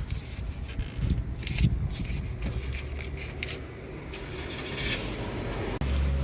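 Metal clinks and scraping of hand tools and bolts worked in a car's engine bay, with a few sharp clicks. A low steady hum comes in near the end.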